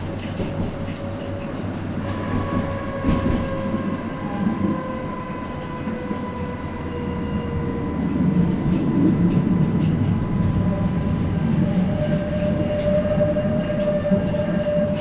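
Tatra T5C5K tram heard from inside the car while running: a steady rumble of the car and wheels with a few clicks, and a thin electric whine that slides down in pitch. The rumble gets louder from about eight seconds in, with a new steady whine.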